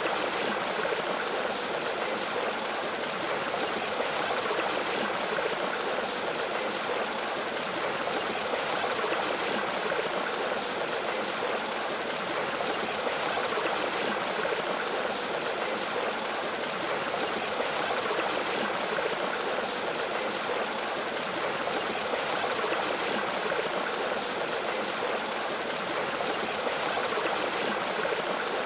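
Mountain stream with a small waterfall, water flowing and splashing over rocks in a steady rush.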